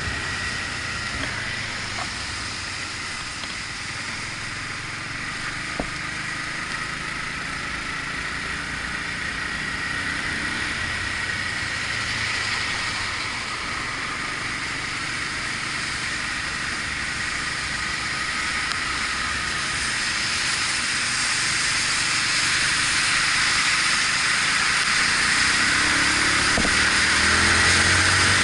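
Riding noise on a Yamaha MT-125 motorcycle in the rain: a steady hiss of wind and wet road with the engine running underneath, growing louder toward the end. A single sharp click about six seconds in.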